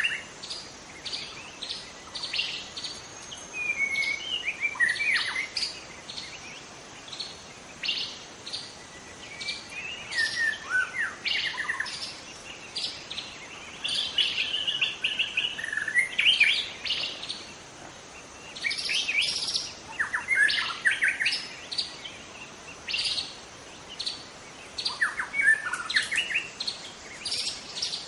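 Young white-rumped shama singing: phrases of quick, varied whistles and sharp notes, with short pauses between them.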